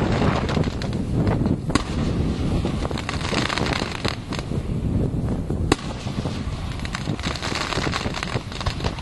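Fireworks display: a dense, continuous volley of bangs and crackling, with a sharp loud bang about halfway through.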